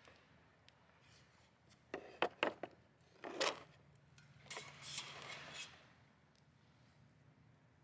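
Camp gear being handled: a few quick light knocks and clinks about two seconds in, then a short louder clatter and some scraping.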